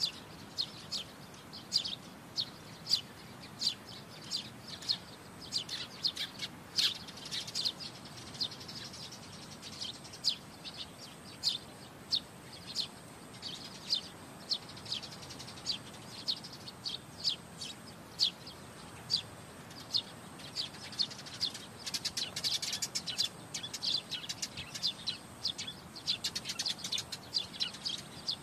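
Many birds chirping at dusk: a dense chorus of short, high chirps, quickening into rapid runs toward the end.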